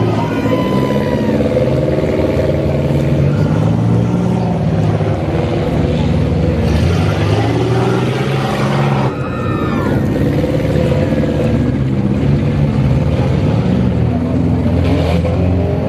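Several compact demolition-derby cars' engines running loud together, revving up and down unevenly as the cars maneuver and push against each other.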